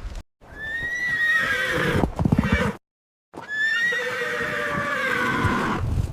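A horse neighing twice, each call about two and a half seconds long with a high wavering pitch, the two separated by a sudden cut to silence.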